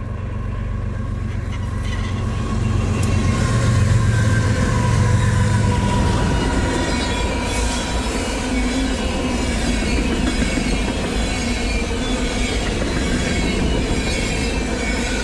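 A train passing close by: the locomotive's low engine rumble builds to its loudest about four seconds in, then the cars roll past with steady rail noise and high-pitched wheel squeal.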